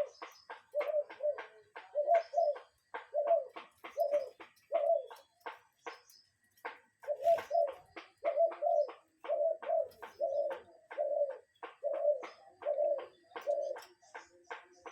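A bird calling a steady series of low, paired coo notes, about one pair a second, with a pause of a second or two midway. Faint rapid clicks run behind the calls.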